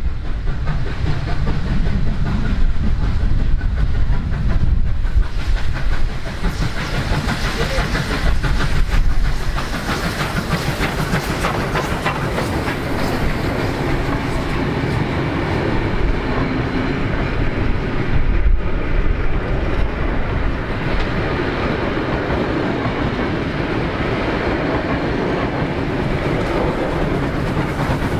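Steam-hauled passenger train rolling past close by, a loud continuous rumble of carriages with the wheels clacking over the rail joints. The K class steam locomotive comes alongside near the end.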